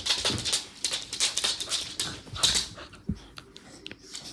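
A corgi making excited noises during a game of fetch: a run of quick, scratchy sounds for about three seconds, then a single thump.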